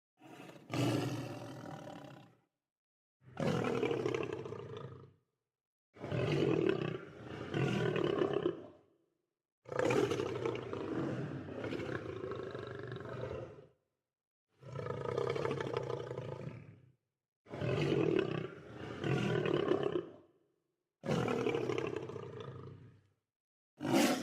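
Lion roaring and growling in a string of about eight separate calls, each lasting one to four seconds, with dead silence between them.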